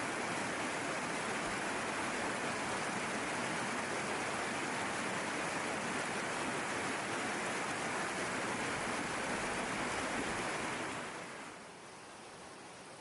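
Steady rushing water, an even hiss. About eleven seconds in it fades down to a much fainter hiss.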